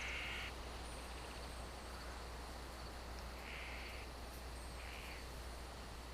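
Faint outdoor nature ambience: a steady insect-like background with a low hum beneath it and three short, raspy animal calls, one right at the start and two more a little past halfway.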